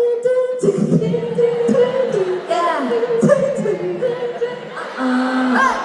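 Arena crowd singing a pop song together a cappella, many voices on one melody.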